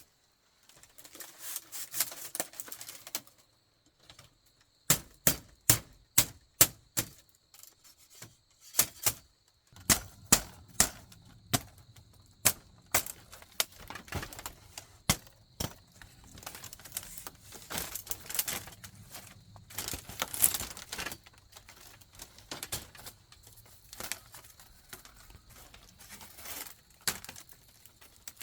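Hand work on bamboo: a string of sharp knocks and cracks, at first a quick run of about three a second, then irregular strikes.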